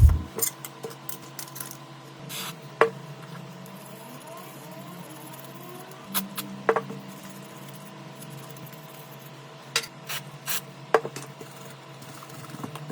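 Small hand tools tapping, clicking and briefly scraping against a smartphone under repair, in scattered sharp strokes over a steady hum.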